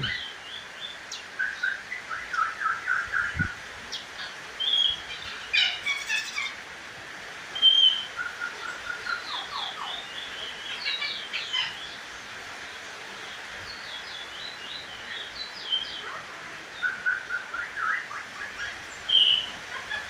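A caged bullfinch singing: short phrases of quick, high, chirping notes, repeated again and again with brief pauses between.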